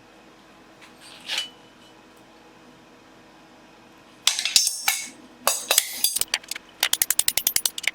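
Steel being hammered at the anvil: a few hard, ringing metal-on-metal blows about four seconds in, then a quick, even run of lighter strikes, about ten a second.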